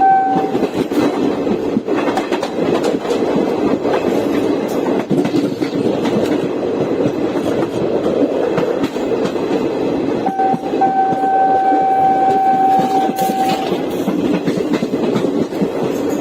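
Passenger train running at speed, its wheels clattering over the rail joints under a steady rumble. The train horn sounds one short blast at the start, then about ten seconds in a brief toot followed by a long blast of about three seconds.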